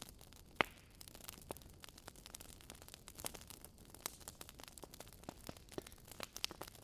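Wood fire crackling in a fireplace: irregular sharp snaps and pops over a soft hiss, with one louder pop about half a second in.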